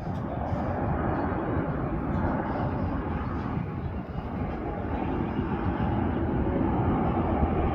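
Airplane engines running, a steady rushing noise that swells slightly toward the end.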